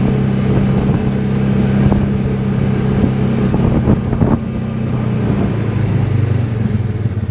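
A vehicle engine running steadily, with a few knocks about three to four seconds in. It slows down in the last couple of seconds, as if the vehicle is coming to a stop.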